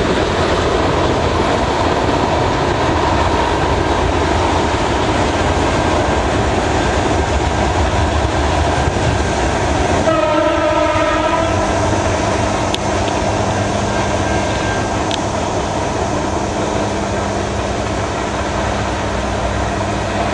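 Freight train of tank cars rolling past, wheels clicking over the rail joints, the sound easing as it moves away. About ten seconds in, a locomotive horn sounds for about two seconds.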